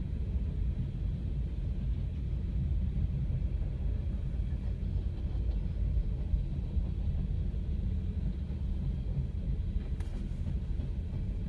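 Steady low rumble of a train passing over a level crossing, heard from inside a car waiting at the lowered gate.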